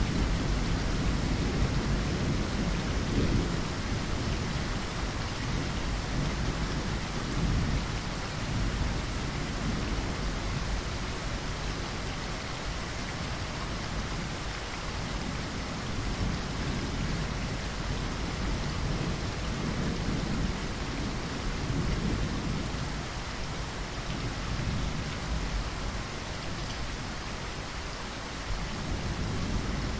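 Steady, heavy rain with a low thunder rumble underneath that swells and fades slowly.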